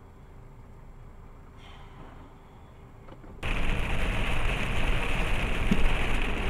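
Vehicle road noise as picked up by a dashcam: a faint low rumble, then about three and a half seconds in a sudden switch to loud, steady road and wind noise.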